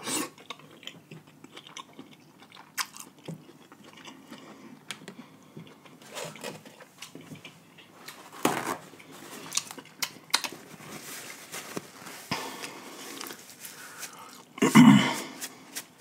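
Close-miked chewing of seafood boil, wet mouth sounds with scattered small crunches and clicks. There is a louder mouth sound about eight seconds in and a short louder one near the end.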